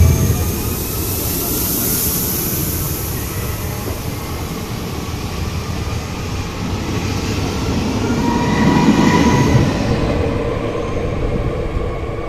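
SNCF regional passenger train running at the platform: a steady mix of motor hum and wheel noise on the rails, swelling louder about two-thirds of the way through.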